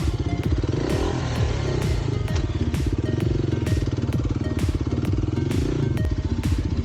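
Kawasaki KLX300's single-cylinder four-stroke engine running on the throttle, its revs rising and falling twice, with sharp knocks now and then.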